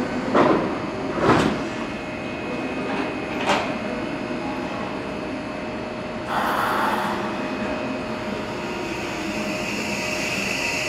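Electric commuter train at a station platform. A few sharp knocks come in the first few seconds, then a short burst of air hiss about six seconds in, and a high whine grows louder near the end.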